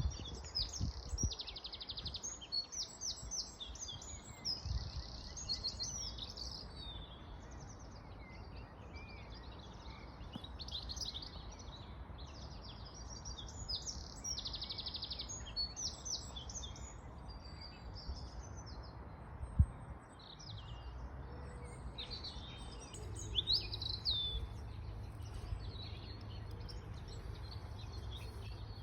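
Several songbirds singing and chirping, overlapping trills and short calls, over a steady rush of a running river. A single thump about two-thirds of the way through.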